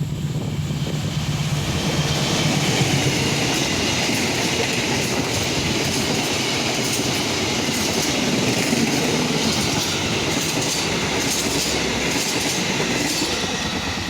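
A train passing close by on the line, its wheels clattering over the rail joints, loud and steady after building up over the first couple of seconds.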